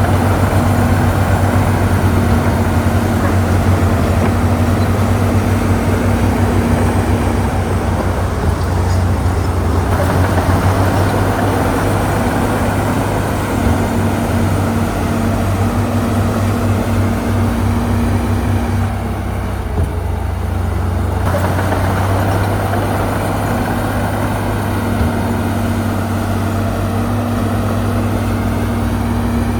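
Heavy diesel earthmoving machinery running steadily, a continuous low engine drone. The sound shifts abruptly about ten seconds in and again around nineteen and twenty-one seconds.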